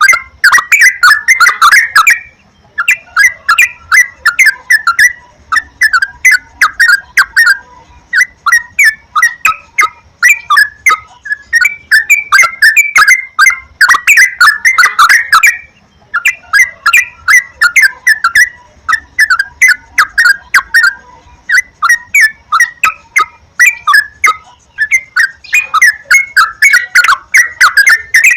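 Yellow-vented bulbuls (trucukan) singing, with rapid bubbling phrases of one to two seconds separated by short pauses, almost without break.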